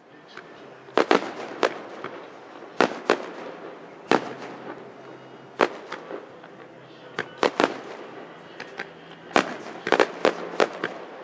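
Aerial fireworks shells bursting in an irregular series of sharp bangs, about fifteen in all, several coming in quick clusters and the densest run near the end.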